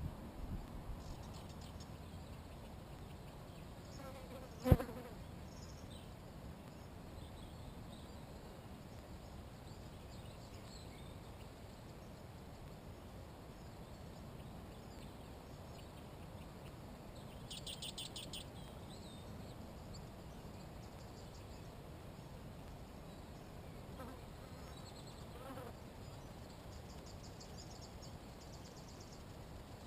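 Faint outdoor ambience with a flying insect buzzing around the microphone. There is a single sharp click about five seconds in. A short, rapid, high-pitched bird trill comes a little past halfway, and a fainter one near the end.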